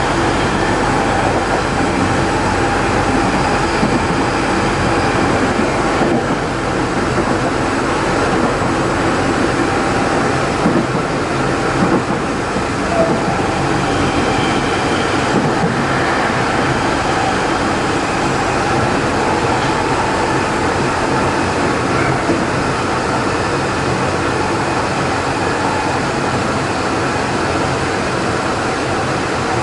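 Tokyo Metro 03 series train heard from inside the car while running: steady whine of several tones from its shunt-field chopper traction equipment and motors over wheel and rail rumble, with a few clicks of rail joints partway through. This car's motor is known to give off a slight abnormal noise.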